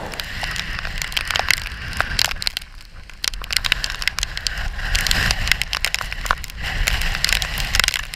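Hurricane storm noise: a low wind rumble under many irregular sharp cracks and taps, easing briefly about a third of the way in.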